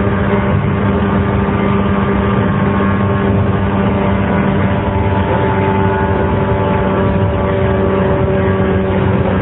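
JR 115 series electric train running at speed: the steady hum and whine of its DC traction motors over the rumble of wheels on the rails.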